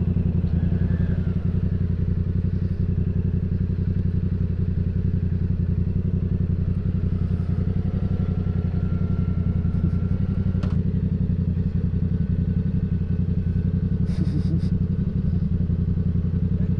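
Motorcycle engine idling steadily, with a quick, even beat of firing pulses. There is a single sharp click partway through and a few small clicks near the end.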